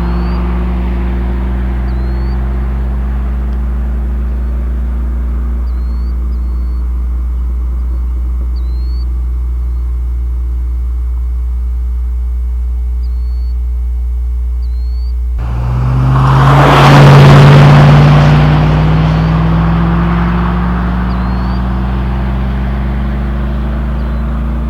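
1999 Chevrolet Silverado's 5.3L LM7 V8 through a Cherry Bomb straight-through muffler, heard from inside the cab: the engine note falls slowly as the truck decelerates. About two-thirds of the way in it jumps into a hard, loud acceleration, then the pitch climbs steadily as the truck keeps pulling.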